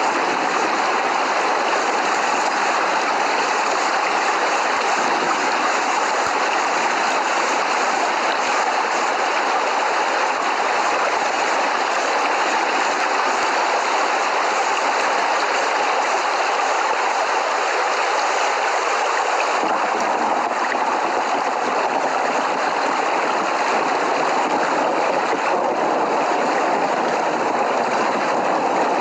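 Steady heavy rain: an even, continuous rushing hiss with no thunder.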